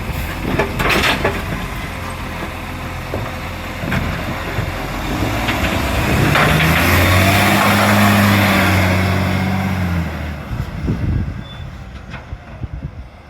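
Garbage truck's diesel engine revving up and holding for several seconds before dropping away, with a few knocks in the first seconds. The truck has an exhaust leak.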